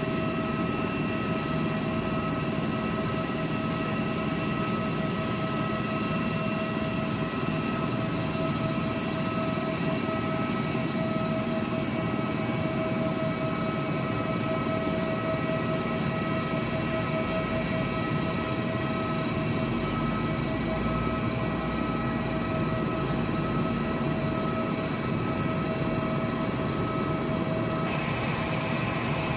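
A jet airliner running steadily: an even rushing drone with a constant high whine over it. The whine shifts slightly near the end.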